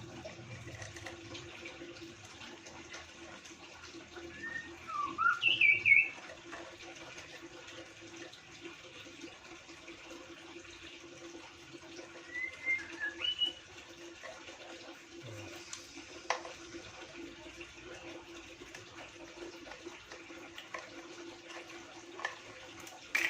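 A bird's short chirping calls in two brief bursts, the first the loudest, over a steady background hiss and hum, with a single sharp click later on.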